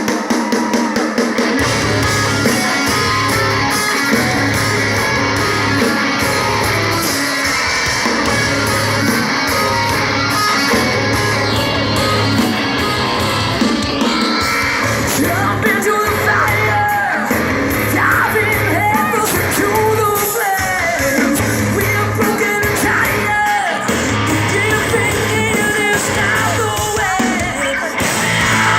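Rock band playing a song live, with a steady pulsing beat and guitars. A singer's voice comes in about halfway through.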